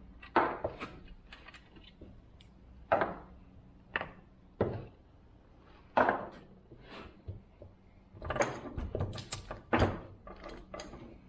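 Scattered metal clicks and knocks as the bar and chain of a chainsaw are worked loose and taken off, coming faster near the end.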